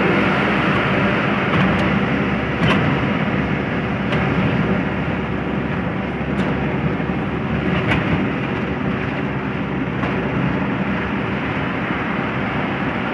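A cargo truck driving along the road, heard from inside the cab: a steady engine hum under road noise, with a few short clicks or knocks.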